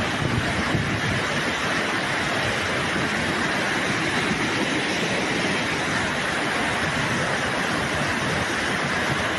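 Floodwater from an overflowing stream rushing steadily through streets, an unbroken loud rush of water.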